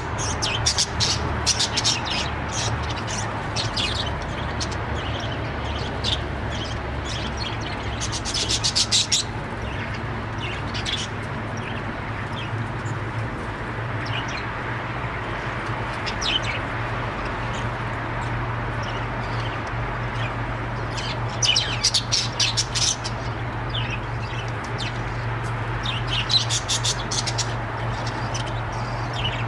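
Budgerigars chirping and chattering in quick bursts of high chirps that come and go, over a steady low hum.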